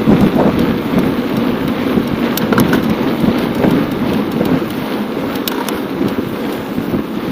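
Wind buffeting a camera microphone on a moving bicycle: a loud, uneven rushing rumble, with a few sharp clicks.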